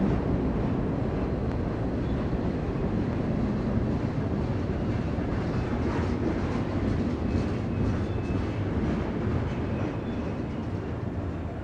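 Freight train cars rolling past on the track, a steady rumble that slowly fades.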